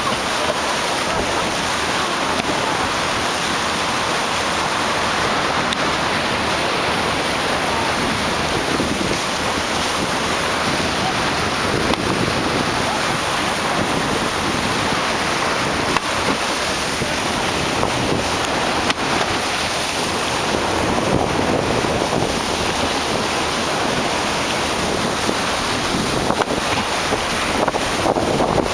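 Steady wind noise on the microphone over the rush of water along a moving boat, with no let-up.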